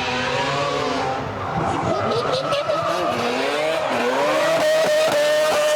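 Drift car sliding through a corner: its engine revving up and down with the throttle while the rear tyres squeal, a high squealing tone rising and holding steady for the last couple of seconds.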